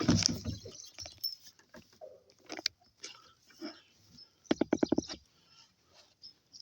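Donkeys browsing on a young tree: leaves and twigs rustling, with chewing and scattered small clicks. About four and a half seconds in comes a short, rapid fluttering run of about eight pulses.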